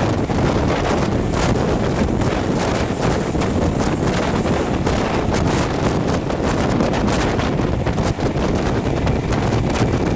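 Heavy wind buffeting a microphone held out of the window of a moving passenger train, over the steady running rumble of the train.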